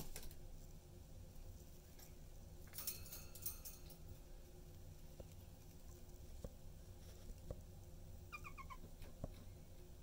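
Pet budgerigars in their cage, faint: a burst of rustling and clicking about three seconds in, a few light scattered taps, and a short run of quick chirps near the end.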